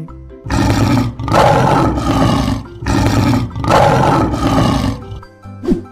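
Lion roaring: about four loud roars in quick succession, ending about five seconds in.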